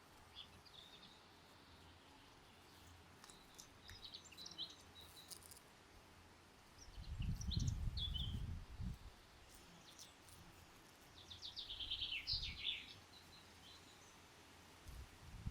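Songbirds chirping in short scattered calls, with a quick trill of falling notes about eleven seconds in. A low rumble comes and goes around seven to nine seconds in and again at the very end, louder than the birds.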